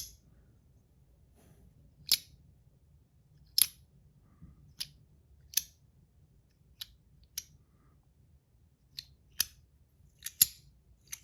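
Metal Compoform slider coin fidget being slid and snapped, giving sharp clicks at irregular spacing, about one every second. The clicks come as the coin pops up out of its track when slid like a haptic coin.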